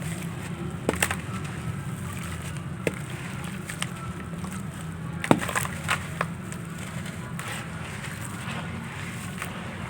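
Dry, gritty handmade chunks crumbling and snapping, heard as a scattering of sharp cracks, the loudest a little past five seconds in, over a steady low rumble.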